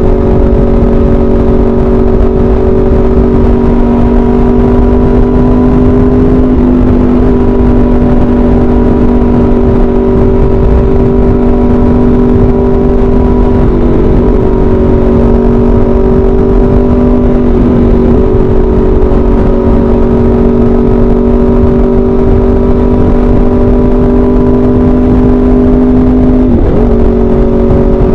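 Aprilia RSV4 RF's V4 engine through an SC-Project CRT exhaust, running at a steady highway cruise; its pitch dips briefly a few times, sharpest near the end. Wind rushes over the microphone underneath.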